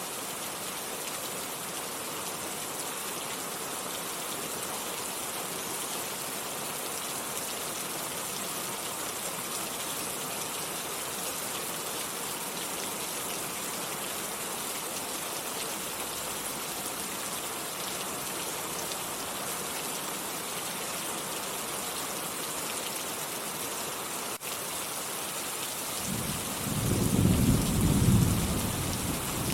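Steady heavy rain falling, with a loud low rumble of thunder rolling in about 26 seconds in and carrying on to the end.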